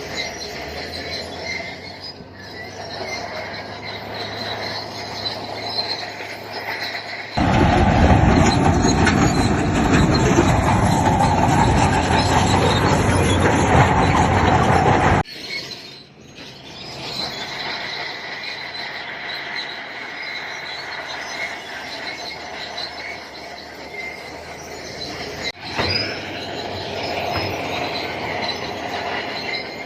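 Crawler bulldozer at work, its engine running under the high squeal of its steel tracks. A much louder, rougher stretch starts abruptly about seven seconds in and stops just as suddenly about eight seconds later.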